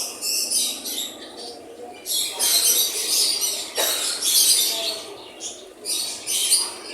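Parrots chattering and screeching in rapid, high-pitched bursts that come thick and fast through the middle.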